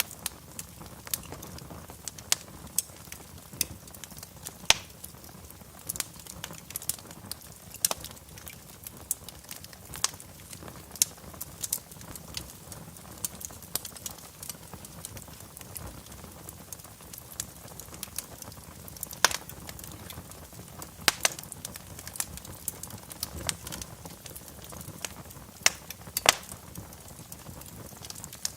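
Wood fire crackling in a fireplace: irregular sharp pops and snaps, some much louder than the rest, over a low steady rumble of the flames.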